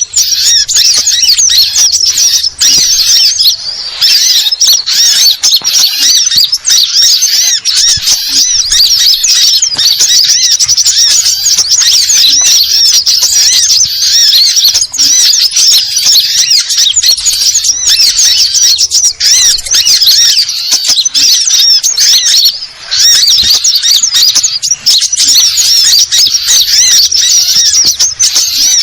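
A busy flock of small birds, sunbirds among them, twittering and squeaking without pause in rapid, high-pitched notes. This is a noisy-bird lure call used to draw other birds in.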